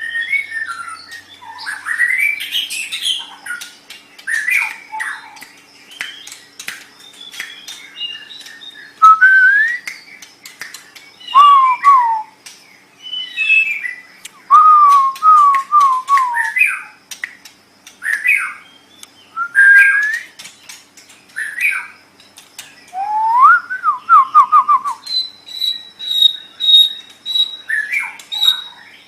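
White-rumped shama (murai batu) singing: a varied run of loud whistled phrases, with rising and falling slurs and short descending note runs, broken by sharp clicks. Near the end it shifts to a rapid string of short high notes.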